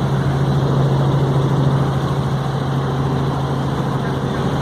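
Helicopter engine and rotor running steadily in flight, a continuous low hum with noise over it.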